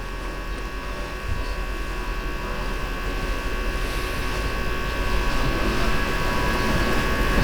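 Steady electrical hum with several fixed tones over a low rumble, slowly growing louder, with one soft knock about a second in.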